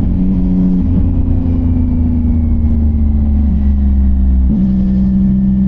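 CFMOTO 675NK's inline-three engine running through a titanium full-system exhaust. About a second in the note picks up slightly and slowly eases off, then drops back to a steady lower note near the end.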